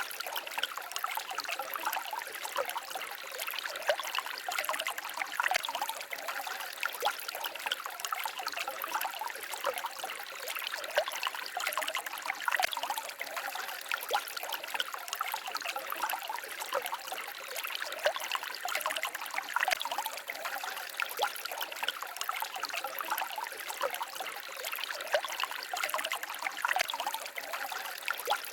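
Small forest stream babbling and trickling over stones, a steady mix of many small splashes and gurgles.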